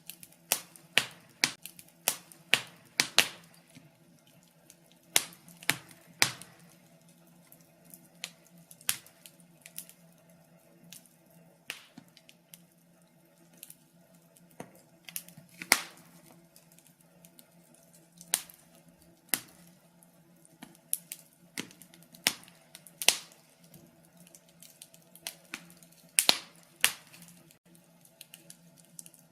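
Wood fire crackling: irregular sharp pops and snaps from the burning logs, sometimes several in quick succession, over a faint steady low hum.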